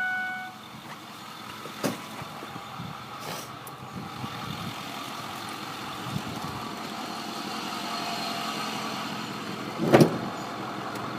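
2009 Ford F350's 6.4-litre Power Stroke V8 diesel idling steadily at operating temperature, with a couple of light clicks and a single loud thump about ten seconds in.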